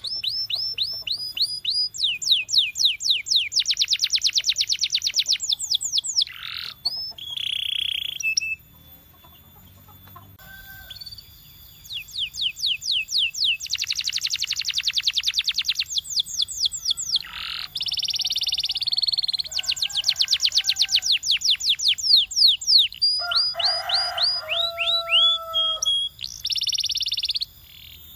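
Domestic canary singing: phrases of fast repeated sweeping notes and rolling trills, with a short lull about nine seconds in before the song resumes.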